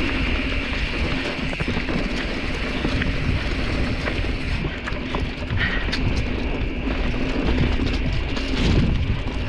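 Specialized Stumpjumper mountain bike riding over a rough dirt trail: a steady rattle of the bike and tyres with a low rumble, broken by many small clicks and knocks from rocks and roots.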